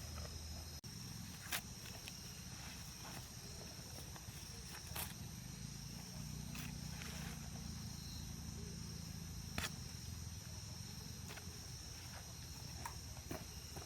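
Steady high-pitched insect drone, with a low background rumble and a few sharp knocks or clicks scattered through.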